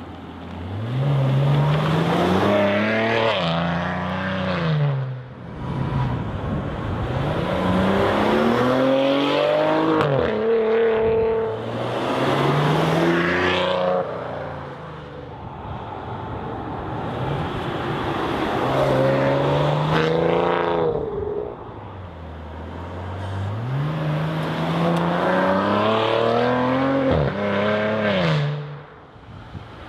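Maserati Ghibli SQ4's 3.0-litre twin-turbo V6 accelerating in about four runs, its pitch rising through each gear and dropping at each upshift, the sound falling away between runs.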